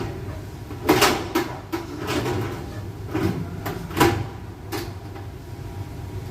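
Kitchen cabinet doors and drawers being opened and shut during an insect inspection: a string of sharp knocks and clatters, about seven in the first five seconds, over a steady low hum.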